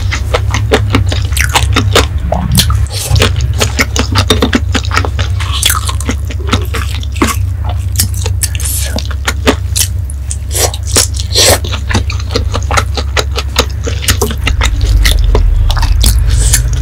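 Close-miked eating sounds: a person chewing and biting food, with many quick sharp clicks and crackles from the mouth and the utensils, over a steady low hum.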